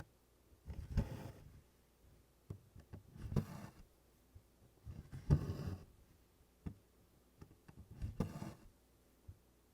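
Needle and cotton floss being pulled through Congress cloth stitching canvas: a soft rasping swish of thread drawn through the fabric four times, about every two to three seconds, with light taps and clicks of the needle on the canvas in between.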